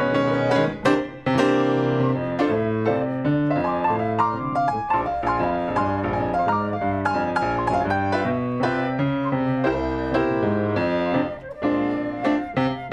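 Piano duo playing a jazz standard, a busy run of swinging chords and melody with two brief near-pauses, about a second in and near the end.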